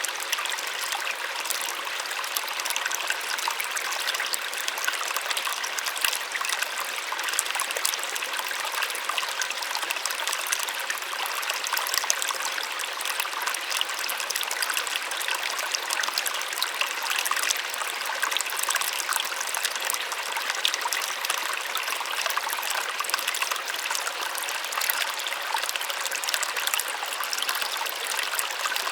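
Small waterfall splashing and gushing steadily, a light, hissy rush of falling water with little low rumble.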